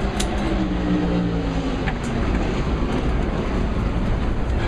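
Race car engine running over a steady deep rumble, its engine note falling slowly in pitch over the first couple of seconds.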